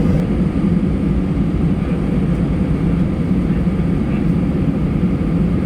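Steady low cabin rumble inside an Airbus A319 on the ground after landing, its engines running at idle.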